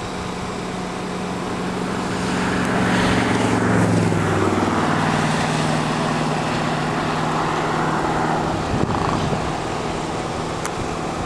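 A motor vehicle's engine running with road noise, growing louder over the first four seconds and then holding steady, its pitch shifting down slightly around the peak.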